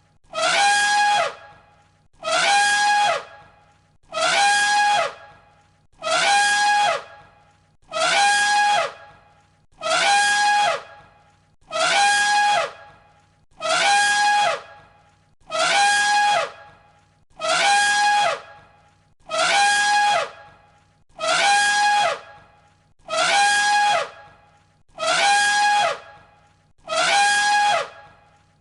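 An elephant trumpeting: the same loud, brassy blast of about a second, repeated about every two seconds. Each blast holds its pitch and then drops at the end.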